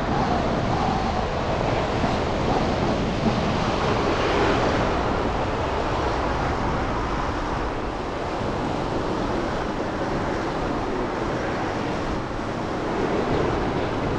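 Steady city traffic noise on a wet, slushy street after snow: tyres hissing through the slush and vehicles passing.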